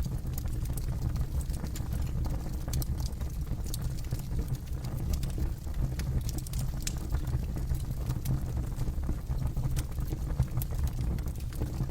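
Campfire burning, with a steady low rumble of the flames and frequent sharp crackles and pops from the burning wood.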